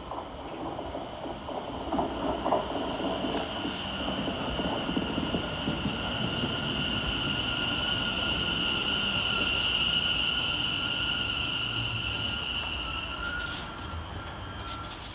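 West Midlands Railway electric multiple unit running into the platform, its wheels and motors rumbling and clattering, with a steady high-pitched squeal over the top. The squeal and the rumble swell as the train passes close, then the squeal cuts off sharply near the end.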